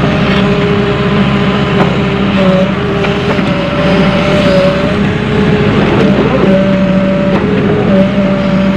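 Volvo EW130 wheeled excavator working: its diesel engine runs steadily under load while a hydraulic whine switches between a higher and a lower pitch every second or so as the boom and bucket move.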